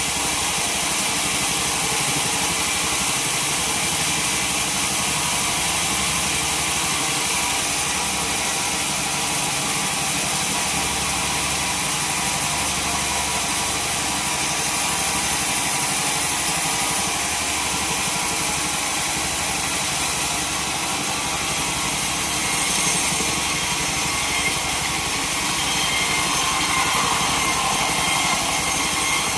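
Sawmill running steadily, its engine and saw blade cutting through a log.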